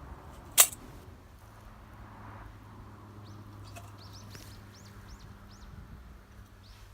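A sharp crack about half a second in, then a bird calling a quick run of short, high chirps, about three a second, in the middle, over a faint low steady hum.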